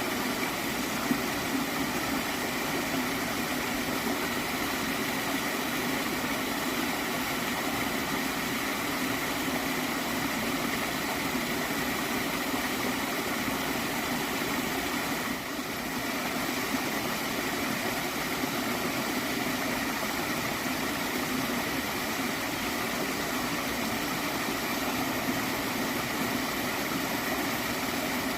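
Flowing water from a small stream, a steady even rush with a brief dip in level about fifteen seconds in.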